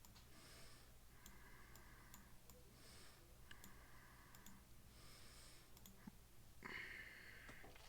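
Near silence with faint scattered mouse clicks.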